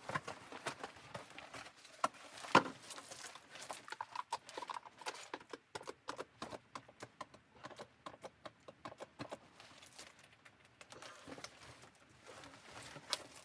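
Irregular series of light clicks and knocks, with two louder knocks: one about two and a half seconds in and one near the end.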